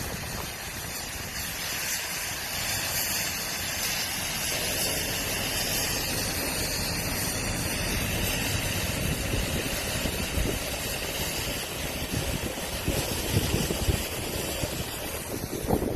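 A vehicle engine idling with a steady hiss over it, and uneven low rumbling that sounds like wind buffeting the microphone.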